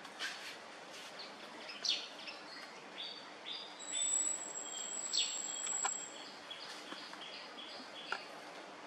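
Birds chirping in short, high, repeated calls, several notes in quick succession, over a faint outdoor hiss. A thin, steady, high whine sounds for a couple of seconds in the middle.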